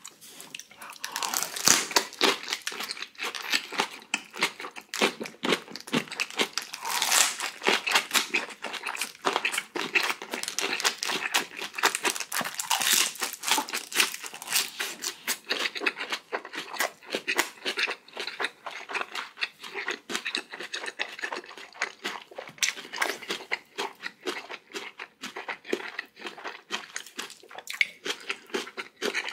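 Close-miked chewing of crunchy food: a dense, unbroken run of wet crackling crunches.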